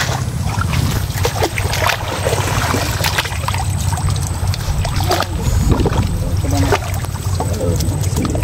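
Water splashing and trickling, with scattered clicks and knocks from the catch being handled, over a steady low rumble.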